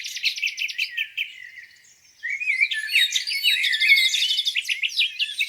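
Several songbirds singing at once, with overlapping chirps, rapid trills and quick whistled notes that slide in pitch. The song thins to a brief lull a little under two seconds in, then starts up again.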